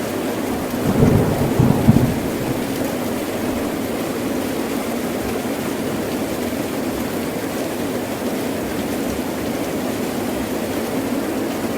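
Heavy rain pouring steadily, with a short, loud rumble of thunder about a second in.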